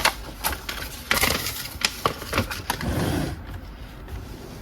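Hard plastic toy parts of a DX Jettoras robot toy clicking and knocking as they are handled and a piece is pulled off, with a short scraping rustle about three seconds in.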